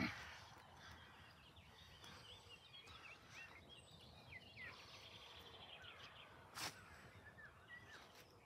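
Faint birdsong: many short chirps and whistles from several birds. One sharp click about two-thirds of the way through.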